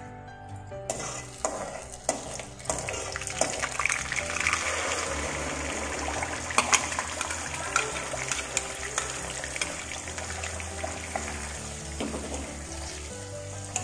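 Boiled onion paste frying in hot oil and ghee in a kadai, with a steady sizzle that starts about a second in. A metal spatula scrapes and clicks against the pan as the paste is stirred.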